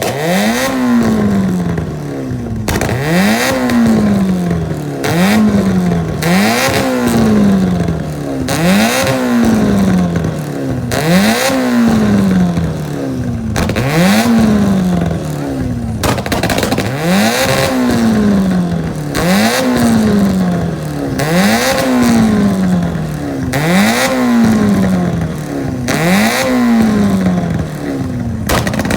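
A car engine being revved again and again: each time the pitch jumps up quickly and then sinks back, about once every second and a bit, with a rough rush of noise at each peak.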